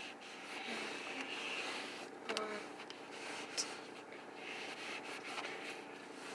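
A disinfectant wipe rubbing over car interior surfaces, with a few light clicks and knocks, over the steady hum of the idling engine and the heater turned up high.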